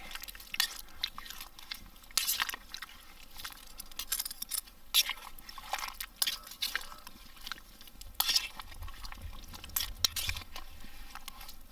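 Spoon stirring stew in a metal billy pot, with irregular scrapes and clinks against the pot.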